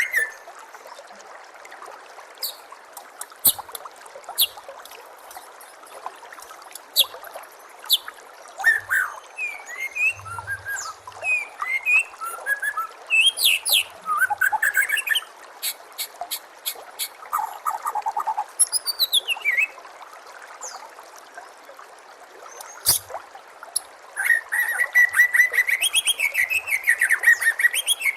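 Songbird song, a varied string of chirps, whistled glides and trills over a steady background hiss, ending in a fast run of rapid repeated notes. It is part of a masteran recording of murai batu (white-rumped shama) song.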